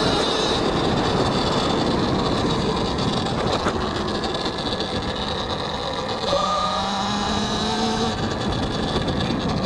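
Talaria X3 electric dirt bike under way: the electric motor's whine rises and falls in pitch with speed, over heavy wind noise on a helmet-mounted mic. A single sharp click comes about three and a half seconds in.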